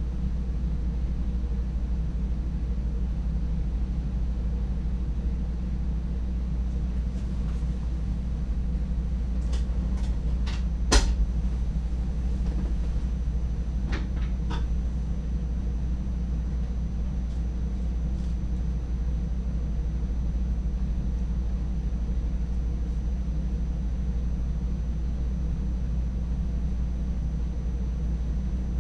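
Steady low rumble inside the driver's cab of an NS DDZ double-deck electric train, with a faint high whistle throughout. A short cluster of sharp clicks and knocks comes between about a third and halfway through, one louder than the rest.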